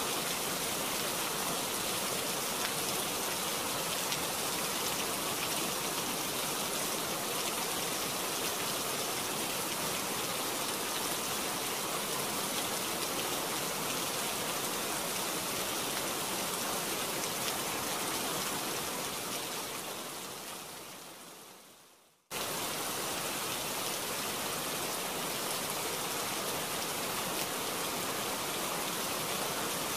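Heavy rain falling in a steady, even hiss. It fades away about twenty seconds in, then cuts back in abruptly a couple of seconds later.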